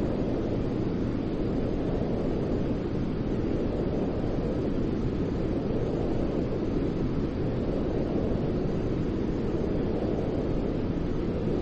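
Steady, deep white-noise track for lulling a baby to sleep: an even low rushing hiss, heavier in the bass than in the treble, swelling slightly and slowly.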